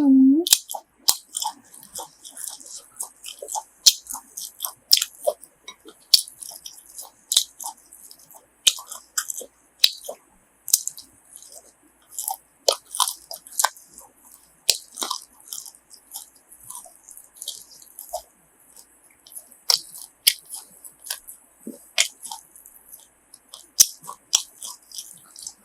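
Close-miked chewing of grilled pork sai tan (pork uterine tube): a steady run of sharp wet mouth clicks and smacks, several a second.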